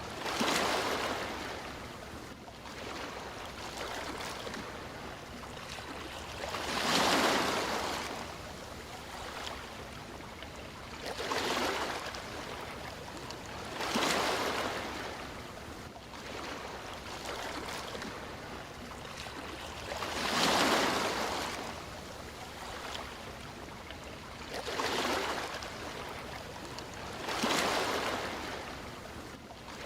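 Sea waves washing onto a shore. Seven swells of surf rise and fall over a constant wash of water, a few seconds apart.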